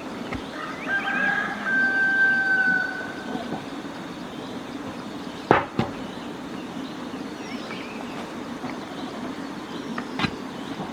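A rooster crowing once, a long drawn-out call about a second in, followed later by a few sharp knocks.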